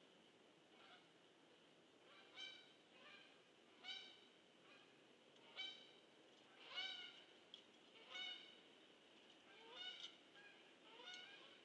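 Faint, repeated calls of a bird, one about every second and a half, over a low steady background hiss.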